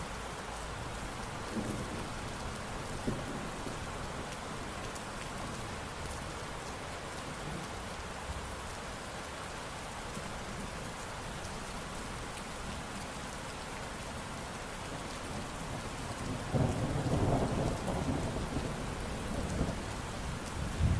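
Steady rain falling, with a low thunder rumble. A louder roll of thunder builds over the last few seconds.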